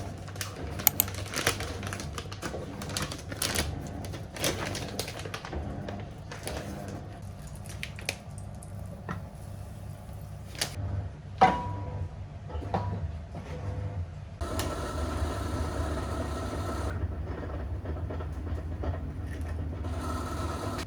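Small handling sounds: scattered clicks, taps and knocks of objects being moved and set down, with one short ringing clink about halfway, over a steady low hum. Near the end come two stretches of steady hiss carrying a faint tone.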